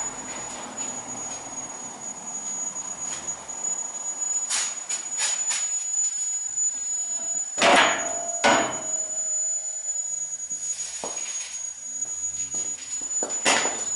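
Metal-on-metal knocks and clanks of hand tools on car parts: a few light taps, then two hard strikes about 8 s in with a brief ringing after them, and another near the end, over a steady high-pitched whine.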